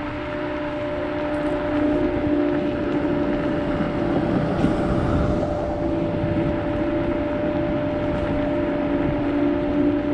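Kaabo Wolf GT Pro electric scooter under way: a steady motor whine over wind rushing across the microphone.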